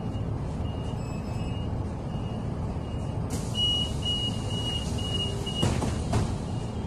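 City bus heard from inside: a steady engine and road rumble with a short high beep repeating about once a second. About three seconds in, a hiss of air starts and the beeping turns fast and near-continuous for about two seconds. Two sharp knocks follow near the end.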